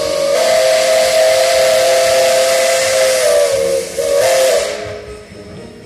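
Steam locomotive whistle blowing a long, loud blast on two steady pitches over a hiss of escaping steam. It breaks briefly about four seconds in, sounds once more, then stops.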